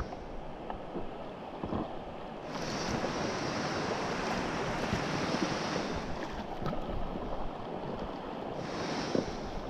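Whitewater river rushing around a raft, a steady noise that grows louder for about three seconds in the middle.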